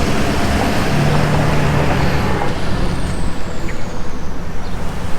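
Street traffic noise: vehicles running past, with one engine's steady low hum standing out briefly about a second in.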